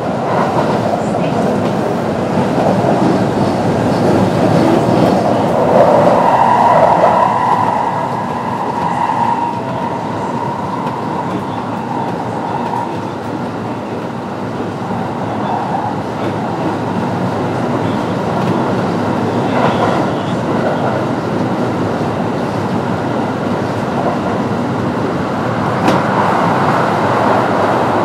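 Kintetsu 9020 series electric train running at speed, heard from inside the car: steady rolling noise of wheels on rail with clickety-clack from the track. A high tone rises above it for a few seconds about six seconds in.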